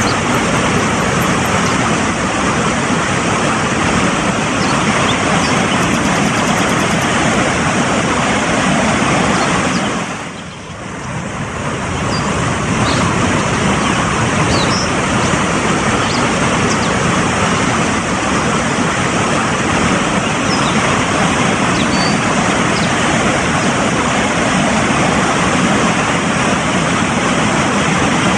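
Mountain stream rushing steadily over rocks, a loud even rush of water. Its level dips briefly about ten seconds in, then comes back.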